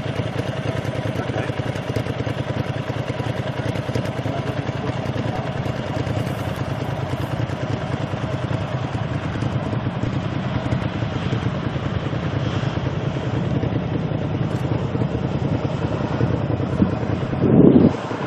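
Jet airliner engines running steadily as an aircraft comes in to land overhead: a continuous rumble with a hum of steady engine tones, growing a little louder toward the end. A brief louder burst near the end.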